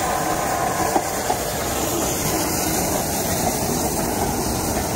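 A train running on the line: a steady rumble of wheels on rail, with a few short sharp clicks.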